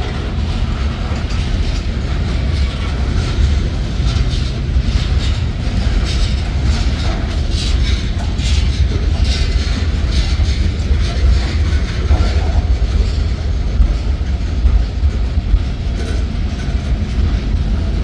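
Freight cars of a manifest train rolling past at close range: a deep, steady rumble of steel wheels on rail, with clicking and clacking as the wheels cross rail joints, busiest in the middle.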